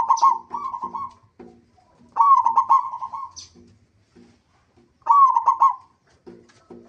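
Zebra dove (local perkutut) cooing song: three phrases about two and a half seconds apart. Each opens with a few lower notes and runs into a quick rolling trill of coos.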